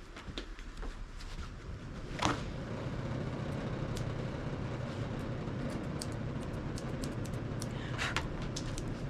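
Electric dog grooming clippers switched on with a click about two seconds in, then running with a steady hum, with scattered small clicks.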